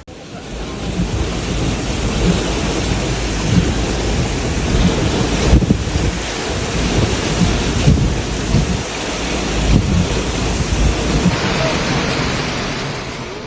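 Torrential tropical-storm rain pouring steadily with a deep, continuous rumble beneath it. The sound shifts in character about eleven seconds in.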